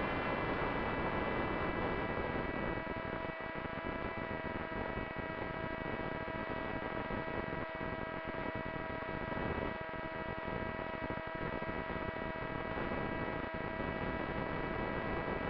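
FPV racing drone's brushless motors and propellers in flight: a steady high whine at near-constant throttle over a rushing noise of propeller wash and wind.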